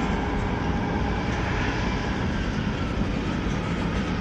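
Train rolling past: a steady rumble of wheels on the rails, with a faint thin high squeal coming in about halfway through.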